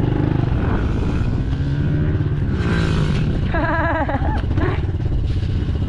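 Pit bike engine running steadily while being ridden, with a short voice-like call from a rider about two thirds of the way through.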